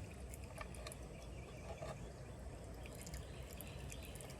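Old engine oil draining from the drain-plug hole of a Honda 90 hp four-stroke outboard, a faint steady trickle and pour into a catch container.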